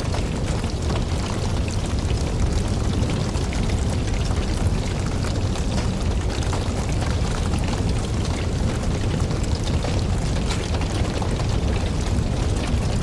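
Wood campfire burning: a steady low rumble of flames with dense small crackles and pops from the burning logs throughout.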